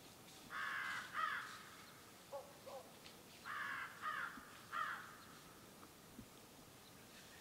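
Harsh bird calls in two bouts, each a long call followed by one or two shorter falling ones, with two softer, lower calls between them.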